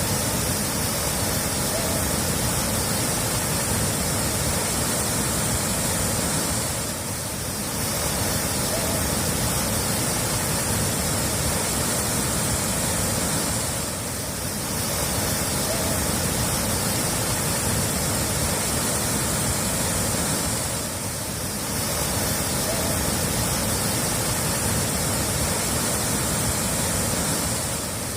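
Steady rush of running water, dipping slightly about every seven seconds.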